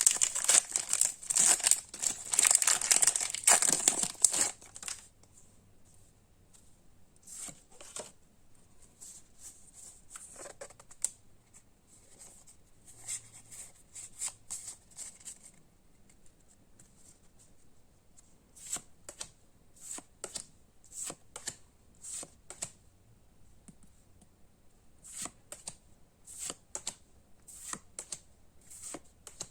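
A foil Pokémon card booster pack crinkles loudly as it is torn open for about the first five seconds. Then come quieter, scattered flicks and taps as the cards are slid off one another and flipped through, in small bursts.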